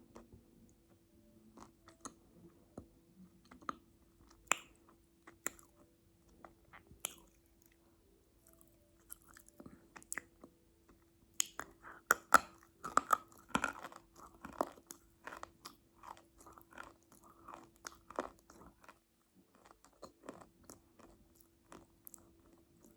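Close-miked chewing of crunchy food: sharp crackling bites and crunches, sparse at first, then a dense run of chewing about halfway through, tapering off near the end.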